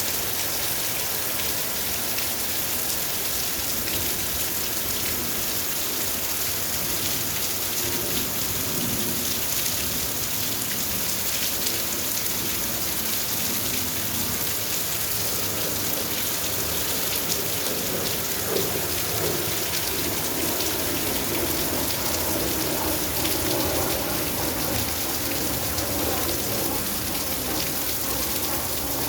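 Steady rain falling, a constant hiss with scattered individual drops striking surfaces.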